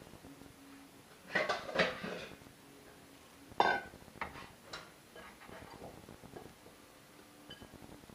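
Kitchen clatter of dishes and utensils being handled: a few quick knocks about a second in, then one loud ringing clink at about three and a half seconds, and a few lighter clicks after it.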